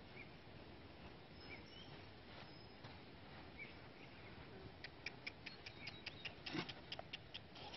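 Faint, scattered bird chirps over quiet outdoor background, with a run of quick, sharp clicks in the second half.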